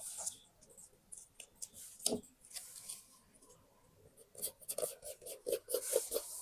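Hands at work on scrapbook paper: scattered light taps and rustles, with a sharper knock about two seconds in. From about four and a half seconds in comes a quick run of short strokes, about five a second.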